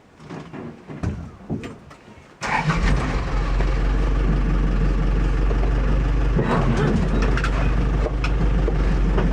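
Quiet scattered sounds, then a vehicle engine starts abruptly about two and a half seconds in and runs steadily with a deep rumble.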